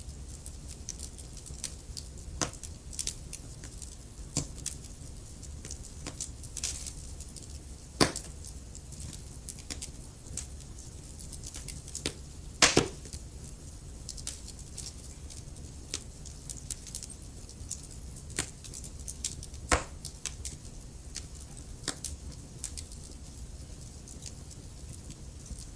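Wood fire burning in a fireplace: logs crackling with irregular sharp pops over a low steady rumble. A few louder pops stand out, one about eight seconds in, a quick double pop around the middle, and another near twenty seconds.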